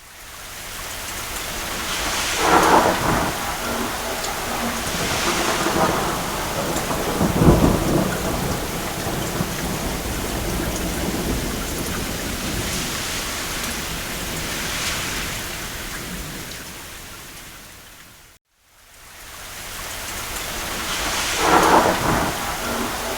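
Steady heavy rain on a roof, with distant thunder rolling in several times; the strongest, deepest roll comes about seven seconds in. The sound cuts out briefly about eighteen seconds in, then fades back up to the rain with another roll of thunder near the end.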